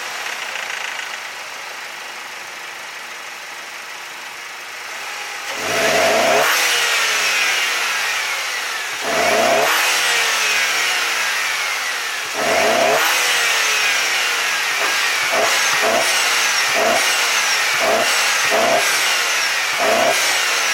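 Mercedes W204 C250's turbocharged four-cylinder engine with its stock airbox intake, idling and then revved: three long rises and falls in pitch, then a series of short throttle blips about once a second near the end, each followed by a high whistle falling away.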